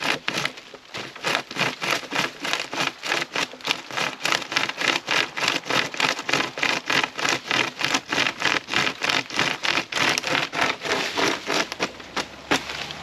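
Pocket chainsaw, a length of saw chain pulled back and forth by hand, rasping through a piece of wood in quick, even strokes, about three a second; the sawing stops shortly before the end.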